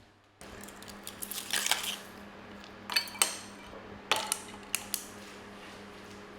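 Kitchenware being handled: a cluster of light clinks and knocks, then a few single sharp clicks, over a steady hum.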